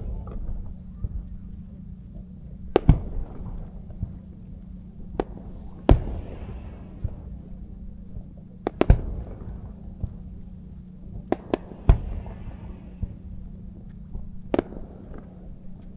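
Aerial firework shells bursting as a series of sharp bangs, the biggest about every three seconds with smaller pops between. Some bursts are followed by a fizzing crackle as the stars burn out.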